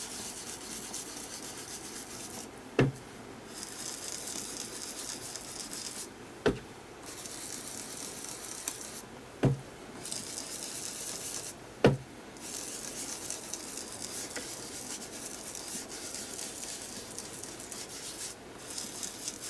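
Distress Ink being rubbed onto a paper journal page with a blending tool, a steady scratchy rubbing. It stops briefly four times, each pause holding one sharp tap.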